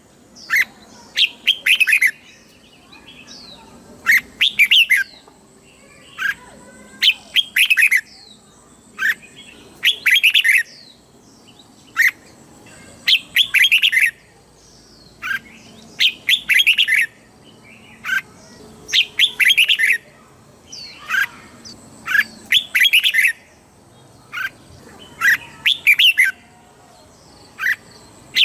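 Red-whiskered bulbul singing, one short phrase every two to three seconds.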